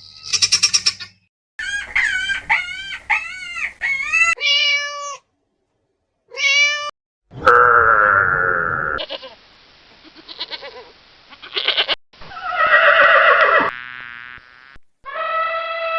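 Farm animal calls, one clip cut after another: a run of short pitched calls early on, then several louder, longer calls, the last one held for about a second and a half and falling in pitch at its end.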